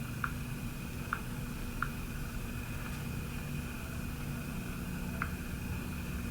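Steady background hum, like a fan or appliance running, with a thin high whine over it and about four small faint clicks spread through it.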